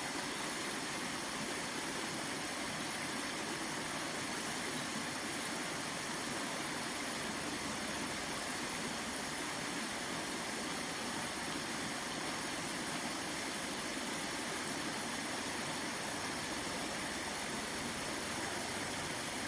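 Water of a waterfall stream rushing, a steady even roar that stays the same throughout.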